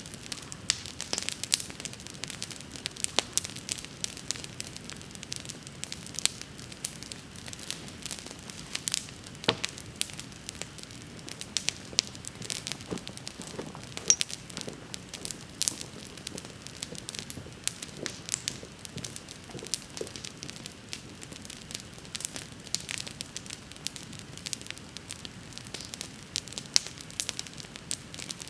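Wood campfire burning, crackling with frequent irregular sharp pops over a soft steady hiss of flames.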